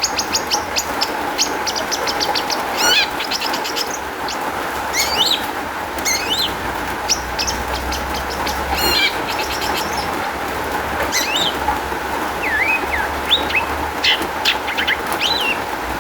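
Long-tailed shrike (cendet) singing a varied song of rapid chattering trills and sharp slurred whistles, a song filled with mimicked phrases, over a steady background hiss.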